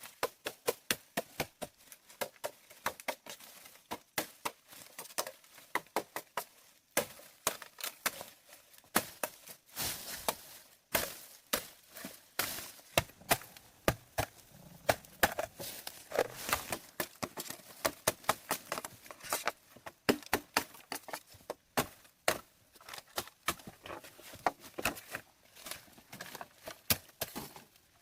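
Repeated sharp chopping strikes of a blade into wood, about two or three a second, uneven in strength.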